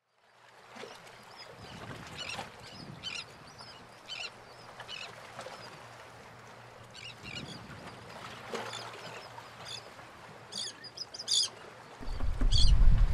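Birds calling again and again in short high calls over a quiet waterside background. About twelve seconds in, a low rumble of wind on the microphone sets in and becomes the loudest sound.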